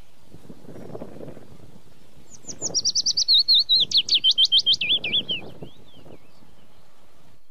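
A small songbird singing one fast trill of short, sweeping notes that drops in pitch over about three seconds, starting about two seconds in.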